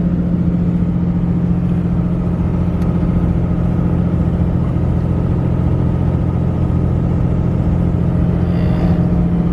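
Steady drone of a road vehicle cruising, heard from inside the cabin: an even engine hum over low tyre and road rumble.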